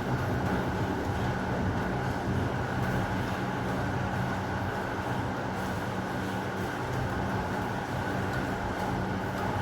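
Steady heavy rain with a constant low rumble underneath.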